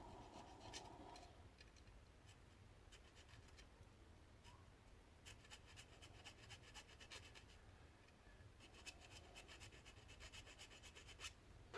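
Faint, quick rasping strokes of a small hand file shaving down an overhang on a part so it will fit, in two runs about five and nine seconds in, with near quiet between.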